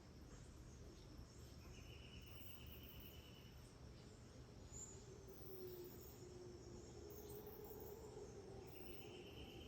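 Faint tropical rainforest ambience with insects: a steady thin high whine, and two pulsing trills lasting about two seconds each, one early and one starting near the end.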